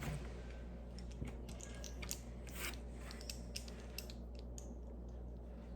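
Small plastic Lego pieces clicking and rattling as they are handled and pressed together: a string of light, sharp clicks at irregular intervals.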